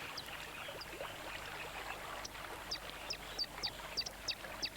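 Malachite kingfishers calling: short, high, thin notes that fall in pitch, a few at first and then about three a second, over a faint steady wash of river water.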